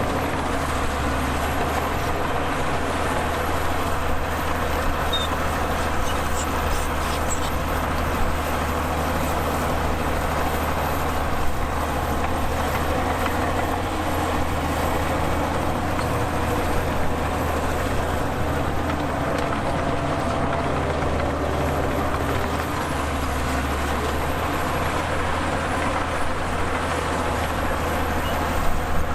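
Heavy earthmoving machinery running steadily under a continuous low diesel engine note, with a few small knocks, one about 11 seconds in and another near the end.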